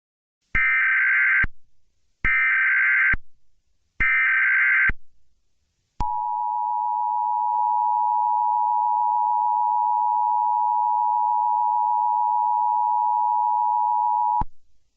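Emergency Alert System tones. Three bursts of SAME header data, about a second each, are followed by the two-tone EAS attention signal (853 and 960 Hz), held steady for about eight and a half seconds. These tones mark the start of an emergency alert broadcast.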